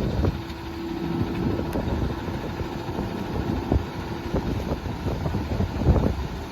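Garbage truck running, with strong wind buffeting the microphone and a gust near the end. A steady whine sounds over the engine for about the first four seconds.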